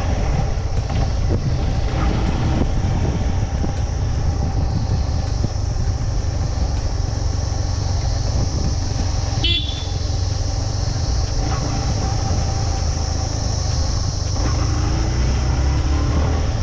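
Motorcycle riding along with a steady low rumble, and a brief sharp high-pitched blip about halfway through.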